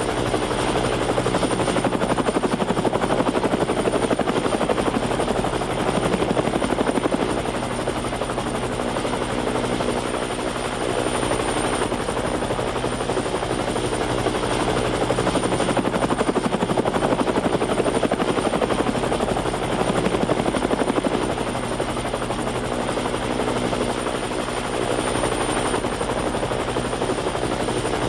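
Helicopter in flight, heard on board: a steady fast rotor beat with a thin high whine, swelling and easing slightly now and then.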